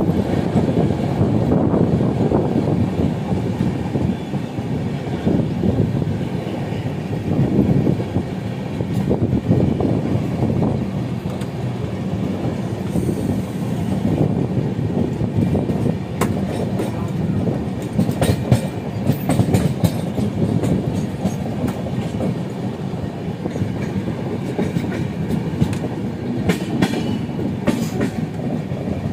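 Running noise of a moving train heard from on board: a steady rumble with irregular clicks from the wheels passing over rail joints.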